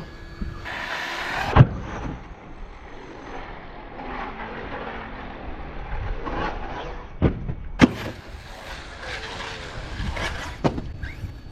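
ARRMA Outcast 6S EXB RC truck driving and jumping. A burst of motor and tyre noise ends in a sharp knock about one and a half seconds in, the loudest moment. Running noise follows, with two more sharp knocks about seven to eight seconds in.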